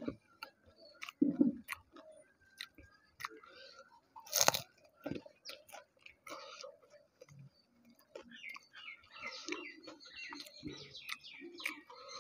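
Close-up chewing and crunching of crisp fuchka (pani puri) shells filled with tamarind water, a string of small crackles with one loud sharp crack about four and a half seconds in.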